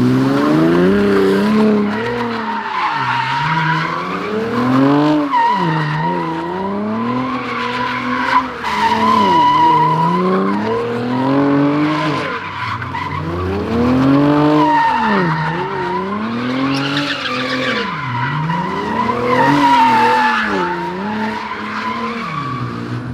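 A car doing donuts: its engine revs up and drops back over and over, every two to three seconds, under a continuous high tyre squeal. The sound cuts off suddenly at the end.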